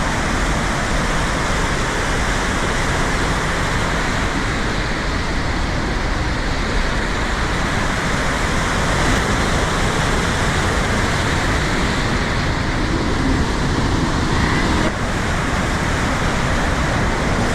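Steady, loud roar of a large waterfall: the Rhine Falls' water crashing down.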